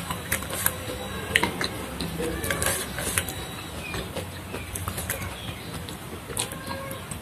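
Close-miked eating sounds: chewing and crunching of raw vegetables, with lettuce leaves rustling and crackling as they are picked from the plate. The crunches come irregularly, the loudest a little over a second in and around three seconds in.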